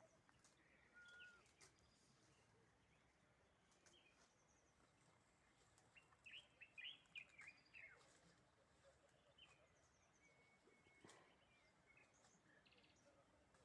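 Faint bird chirps over near silence, with a cluster of quick calls about six to eight seconds in.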